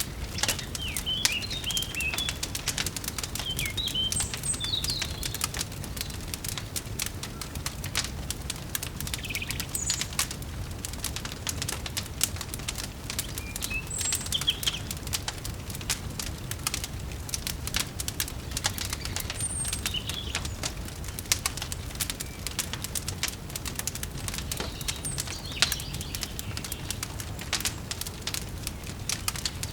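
Ambience mix of a wood fire crackling with dense, irregular pops, under scattered short bird chirps and a steady low rumble.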